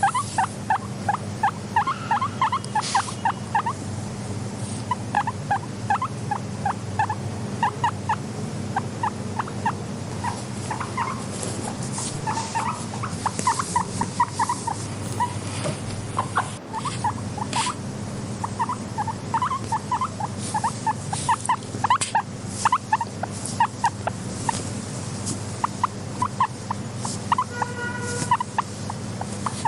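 Guinea pig making runs of short, quick, squeaky calls, several a second, over a steady low hum.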